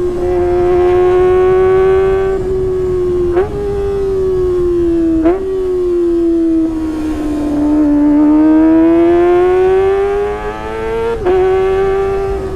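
Kawasaki ZX-25R's 250 cc inline-four running at high revs through a Sportisi Motorsport SRX aftermarket exhaust: a steady high-pitched wail that sags and climbs again in pitch, with three quick jumps in pitch along the way.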